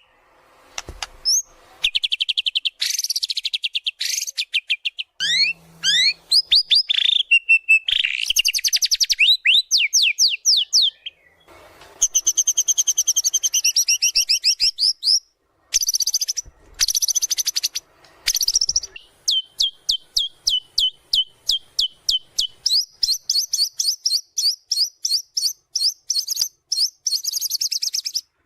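White-rumped shama (murai batu) singing a loud, varied song of trills, sweeping whistles and rapid strings of repeated notes, its repertoire including mimicked phrases of other birds. It breaks off briefly a few times, and from about two-thirds in it delivers long runs of fast repeated notes, first lower, then higher.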